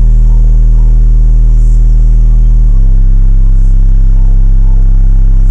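Two FI Audio Team 15-inch car subwoofers playing very loud, held deep bass notes with a buzzing edge, dropping to a lower note a little under three seconds in.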